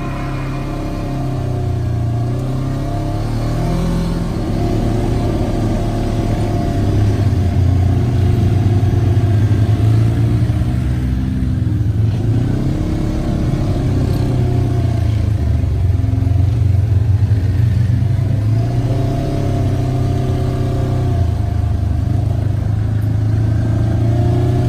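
Polaris RZR side-by-side engine running under load while driving off-road, revving up and easing off again and again, so its pitch keeps rising and falling.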